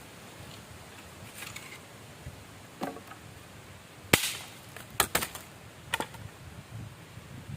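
A series of sharp knocks: one loud crack about four seconds in, then three more over the next two seconds, with softer rustling before them.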